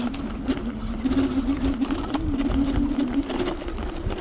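TRBK-M2 electric hyperscooter riding off-road: the motor whines at a pitch that wavers with speed, over a low rumble, with frequent rattles and knocks from the rough trail.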